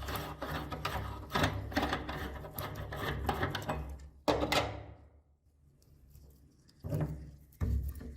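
Meat grinder crushing hard-candy lollipops: rapid crunching and cracking over a low mechanical hum, a loud sharp crack about four seconds in, then a quieter stretch and two more bursts of crunching near the end.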